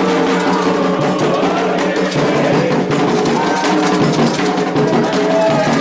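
Candomblé ceremonial music: drums and rattles beaten over voices singing a chant.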